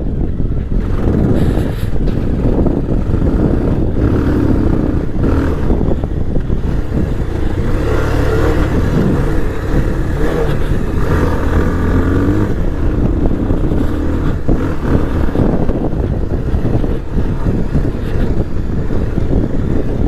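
Motorcycle engine running while riding, its pitch rising and falling repeatedly with the throttle.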